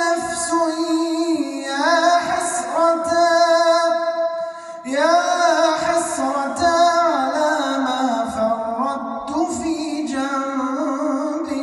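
A man's voice chanting Quran recitation in a long, ornamented melodic line: high held notes with wavering turns. There is a short breath about five seconds in.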